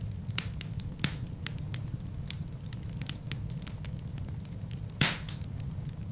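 Wood fire burning in a fireplace: a steady low rumble of flames with frequent sharp crackles, and one louder pop about five seconds in.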